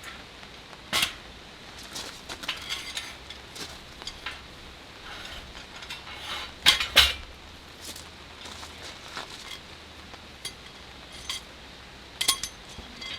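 Camp cookware and utensils being handled, clinking and knocking together in scattered sharp strikes, the loudest about a second in and two close together around the middle.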